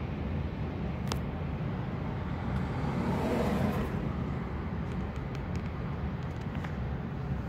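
Freight cars rolling over a steel trestle bridge, with no locomotive in this stretch, making a steady low rumble, while road traffic runs underneath. A car passes louder about three seconds in, and a few light clicks and a brief squeak come near the end.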